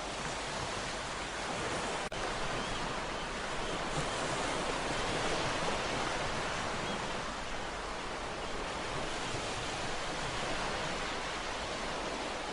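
Ocean surf: a steady wash of breaking waves that swells a little a few seconds in. There is a momentary dropout about two seconds in.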